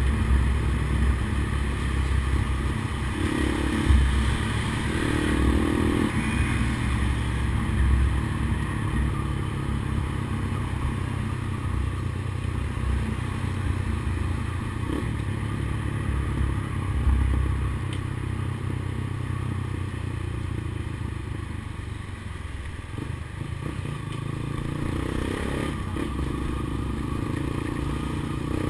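Honda CBX 200 Strada motorcycle's single-cylinder engine running steadily.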